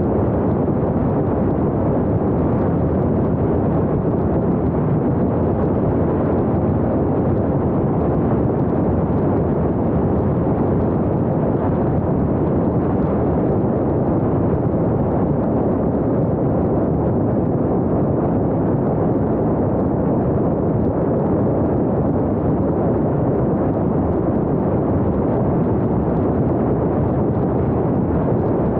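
Steady road and wind noise of a moving vehicle, an even rushing sound with no change in pitch or level.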